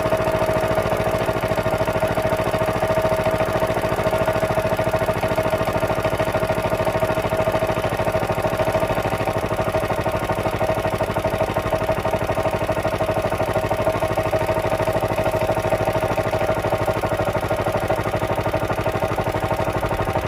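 Vintage Suffolk engine running steadily at an even speed: a rapid, regular firing beat with a constant high note over it.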